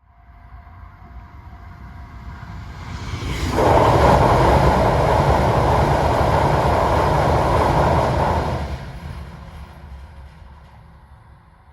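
Yamagata Shinkansen train passing at high speed. A rising rumble builds for about three seconds, then a loud rush of wheels and air holds for about five seconds and fades away as the train leaves.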